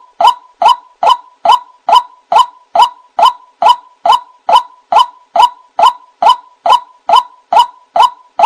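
White-breasted waterhen (ruak-ruak) calling, a long even series of short honking notes, about two and a half a second.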